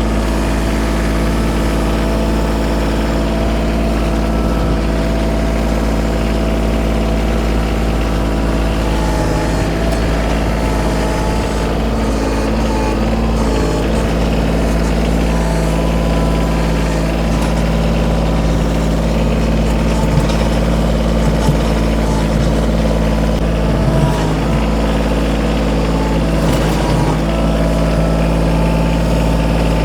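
Kioti compact tractor's diesel engine running steadily at a constant speed.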